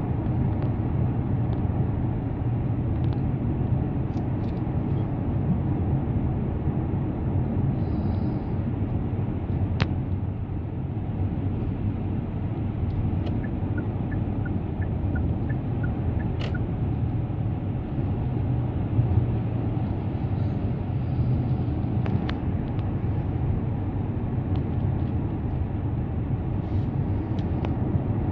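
Steady road and engine rumble inside a moving car's cabin, with a few sharp clicks and a brief run of faint, even ticks near the middle.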